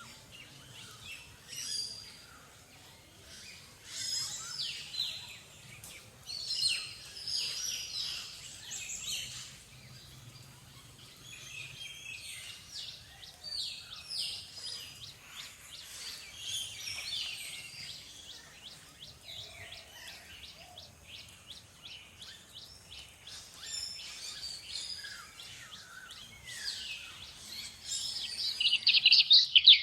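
Small songbirds chirping and calling, many quick chirps and short sweeping notes overlapping, growing denser and louder near the end.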